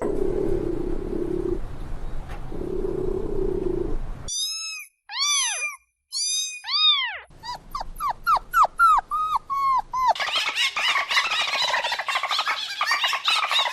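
A run of animal calls. First a low growl-like rumble for about four seconds, then a few high arching calls, then a quick series of short falling yelps. In the last few seconds comes a chorus of many overlapping cries.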